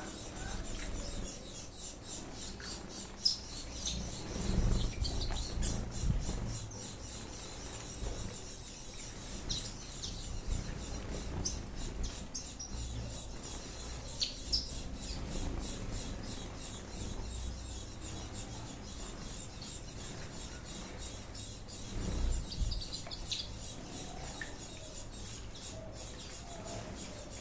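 Small ornamental aviary birds chirping in short, scattered calls over a steady hiss, with low rumbling bumps a few seconds in and again near the end.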